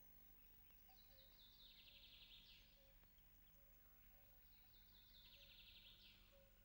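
Faint songbird song: two similar phrases about three and a half seconds apart, each a quick run of notes that falls into a fast trill, over a steady low hum.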